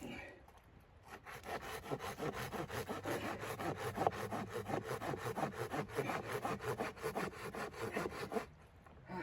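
Hand saw cutting through wood in quick, steady back-and-forth strokes, starting about a second in and stopping shortly before the end.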